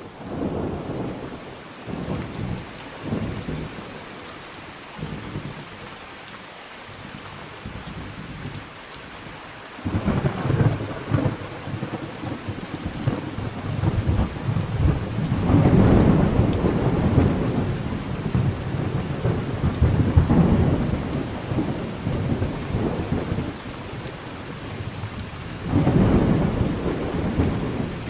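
Steady rain with thunder rolling repeatedly: long low rumbles that swell and fade, several through the middle and another near the end.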